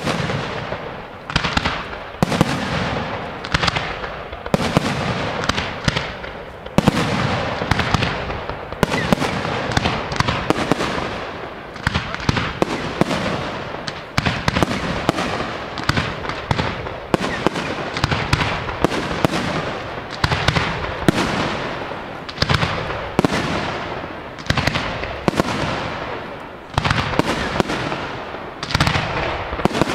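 Professional aerial firework shells bursting in quick succession: a continuous run of sharp bangs, about one or two a second, each trailing off in an echoing rumble.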